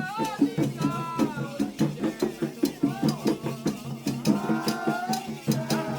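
Candomblé ritual music: drums and other percussion beating a steady, fast rhythm, with voices singing a chant over it.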